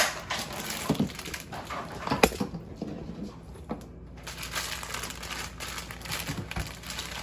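Items being handled: a sharp knock at the start and another about two seconds in, a few dull thumps, then steady crinkling and rustling of packaging.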